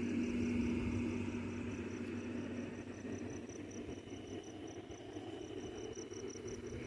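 A cricket chirping in a steady rapid pulse, about four to five chirps a second, over the low hum of a window air conditioner that fades after the first couple of seconds.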